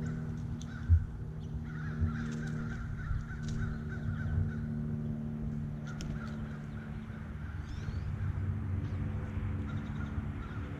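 Harsh, crow-like bird calls in a few runs, over a steady low hum. Two sharp thumps come about one and two seconds in.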